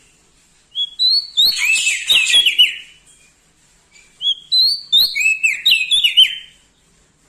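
Prenjak daun Lombok songbird singing two loud bursts of rapid, sharp chirping notes, each about two seconds long, with a few sharp clicks among the notes.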